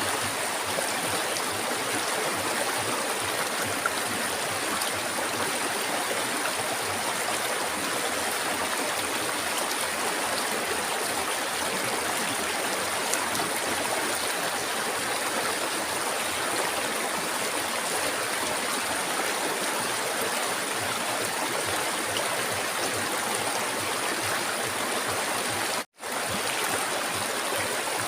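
Flowing river water: a steady, even rush of a stream over rocks. It cuts out to silence for a split second near the end, then resumes.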